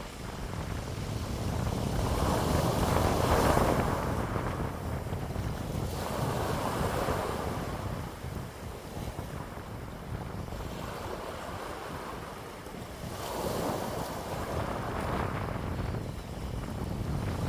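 Wind blowing in gusts that swell and die away every few seconds, over a steady low rumble of wind buffeting the microphone.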